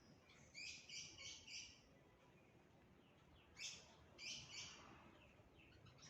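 Wild birds chirping, faint: a quick run of four high notes about half a second in, then a few more chirps around the middle.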